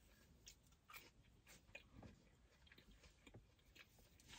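Faint close-up chewing of a bite of burger, with scattered soft, wet mouth clicks.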